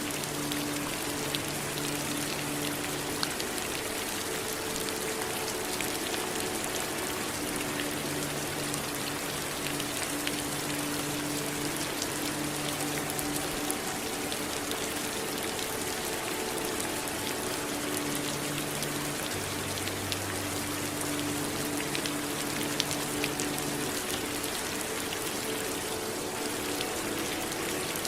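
Steady rain falling, a continuous hiss with scattered individual drops ticking on a surface. Faint low steady tones come and go underneath.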